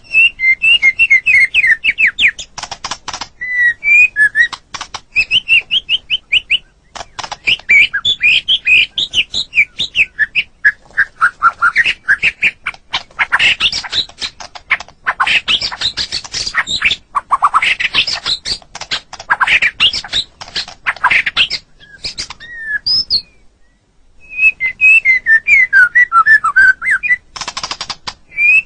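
White-rumped shama singing a fast, varied song of whistled notes and quick trills, mixed with harsh rasping chatter, with a brief pause near the end.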